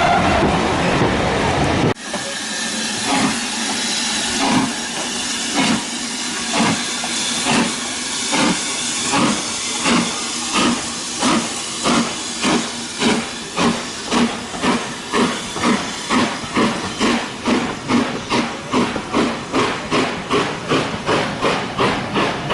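Steam locomotive pulling away, its exhaust chuffing in a steady beat that quickens from about one chuff a second to about two a second as it gathers speed. A short stretch of steady train running noise comes first and is cut off about two seconds in.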